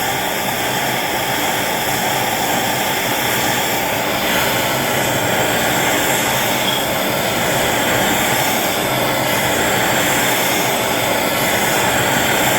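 Handheld gas torch burning with a steady, loud roar, heating a stuck rear hub cap to loosen it.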